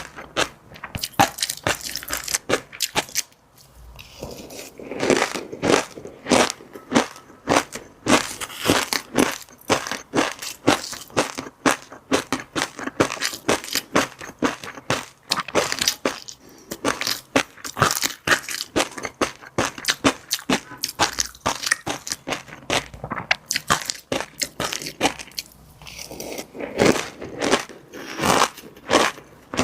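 Close-miked eating: chewing fish roe and crunchy seafood, a dense run of quick crunches and pops, several a second, with a short pause a few seconds in.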